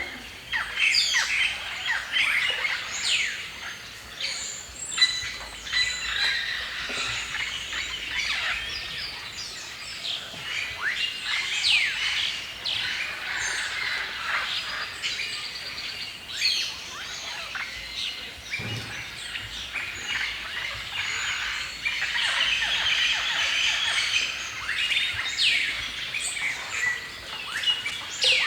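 Many songbirds singing and chirping at once in a forest chorus: a dense overlap of short whistles and chirps.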